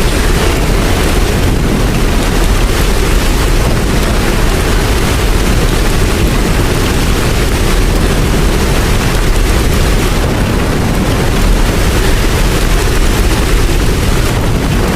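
Steady heavy rain with a deep, continuous low rumble beneath it.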